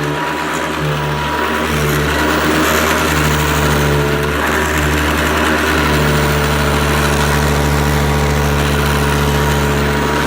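1990 Hoover Convertible 700 Heavy Duty upright vacuum cleaner running steadily, its motor giving a loud, even drone with a low hum.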